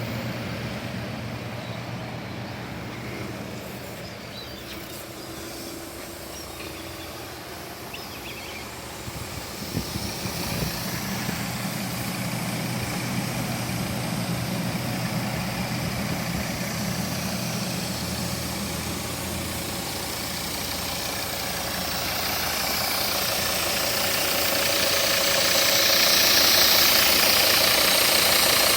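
Volvo car engine running steadily at idle during a carbon-cleaning service, growing louder with a rising hiss over the last few seconds.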